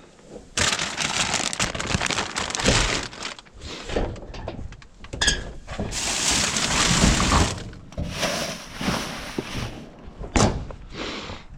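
Rubbish being rummaged through in a bin: bags and contents rustling and clattering, with a sharp knock about ten seconds in.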